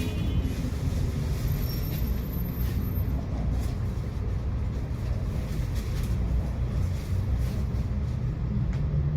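A tram running along the track: a steady low rumble of wheels on rails, with a few faint clicks.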